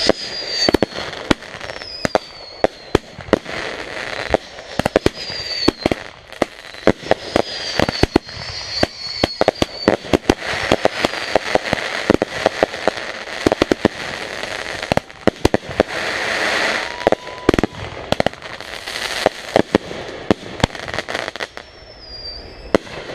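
Backyard consumer fireworks going off: a dense run of sharp bangs and crackles with several short whistles falling in pitch, and stretches of hiss in between.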